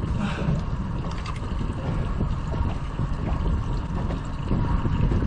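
Steady low rumble of a small fishing boat on the water, with wind buffeting the microphone.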